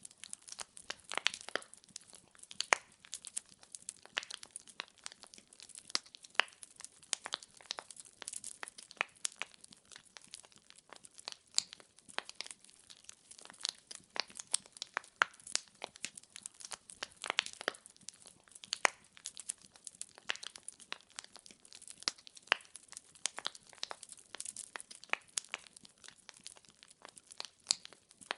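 Wood fire in a fireplace crackling, with dense, irregular sharp pops and snaps of burning logs over a soft hiss.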